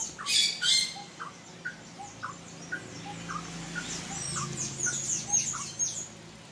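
Birds chirping: quick high chirps over a regular series of short lower peeps about twice a second, with two brief harsh, noisy sounds in the first second.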